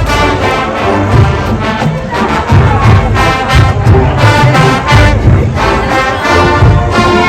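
Marching band playing loud brass over pounding low drums.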